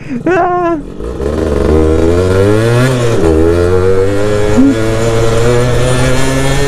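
Yamaha F1ZR two-stroke motorcycle engine pulling away under a rider. The revs climb, drop about three seconds in as it shifts up, then climb again more slowly.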